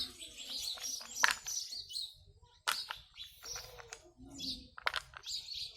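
Small birds chirping in quick, repeated short calls, with several sharp clicks and knocks among them.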